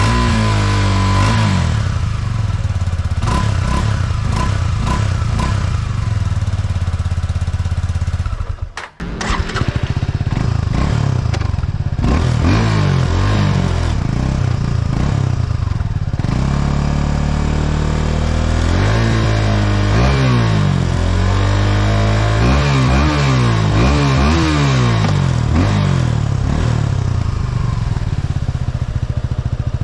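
Suzuki Gixxer 250 SF's single-cylinder engine running through its stock exhaust, which has a catalytic converter and a big internal silencer. It idles steadily, dips away for a moment about nine seconds in, then is revved in repeated short blips, most of them near the end.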